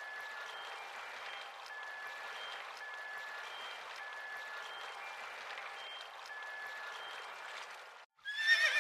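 A steady hiss with faint, short high tones scattered through it. Then, after a brief dropout near the end, a horse starts a loud whinny that wavers in pitch.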